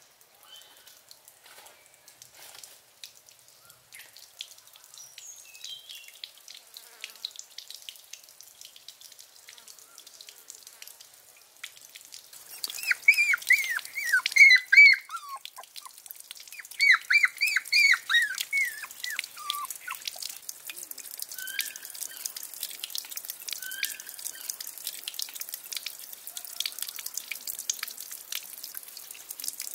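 A bird calling in two bursts of quick, repeated chirps about halfway through, with a few single chirps after. Beneath it, water dripping and trickling.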